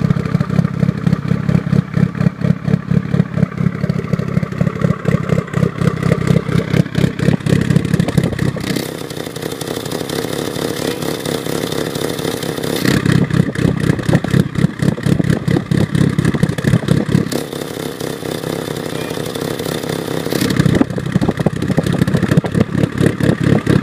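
Mitsubishi Lancer Evolution VIII's turbocharged 4G63 inline-four, on aftermarket GSC S2 camshafts, running through a Varex valved muffler with its butterfly valve closed, with a choppy, pulsing idle. Twice, for about four seconds each, the note turns smoother and steadier before the pulsing idle returns.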